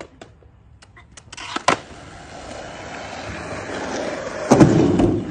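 Skateboard wheels rolling on concrete, the rolling noise growing louder, with a sharp clack of the board about a second and a half in and a loud clatter of board impacts near the end.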